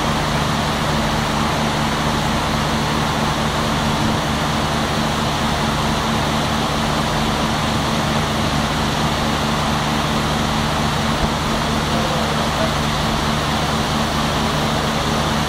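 Heavy tropical rain falling as a steady hiss, with the steady drone of engine generators running underneath.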